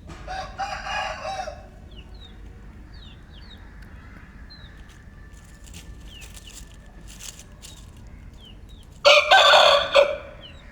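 Lakha Aseel rooster crowing loudly for about a second near the end, after a shorter, softer call about a second in. Faint high chirps are scattered throughout.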